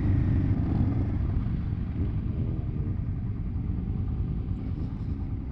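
Motorcycle engine running at low speed, a steady low rumble that slowly eases off.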